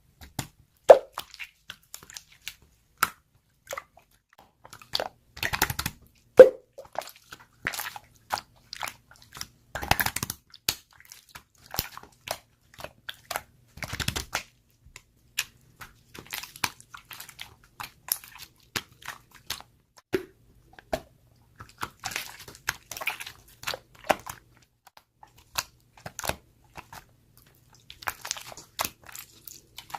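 Slime being squeezed and pressed by hand: a steady run of sticky clicks, crackles and small pops as air pockets burst, with a couple of louder pops about one second in and about six seconds in.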